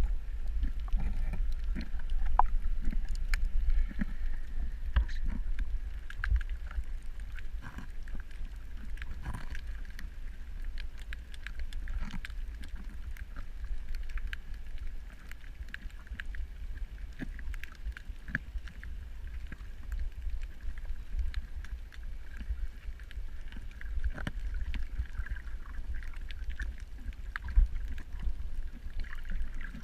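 Steady low rumble of water movement, with many short scattered clicks and crackles and a faint steady higher hum.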